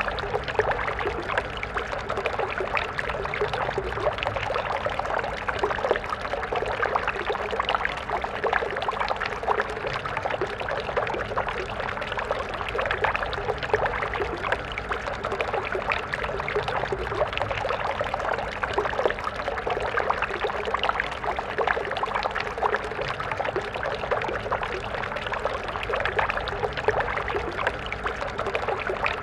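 Stream water flowing steadily, a constant babbling and splashing of small ripples with no pauses.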